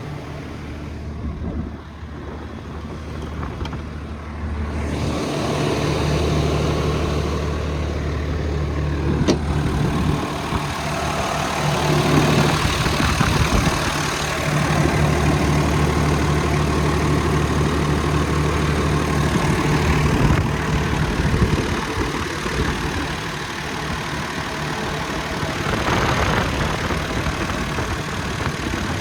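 The 2013 Kenworth T270's 8.3-litre PACCAR (Cummins-built) diesel engine running steadily. It gets louder and busier from about five seconds in.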